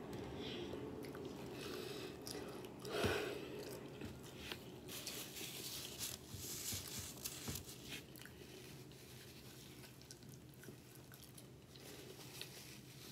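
Close-up eating sounds: a loud crunchy bite into a battered onion ring about three seconds in, then chewing with scattered crisp crunches and mouth clicks that grow fainter toward the end.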